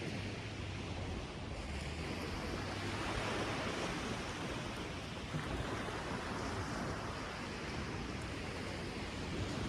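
Sea surf washing onto a sandy beach: a steady rush of breaking waves that swells and eases.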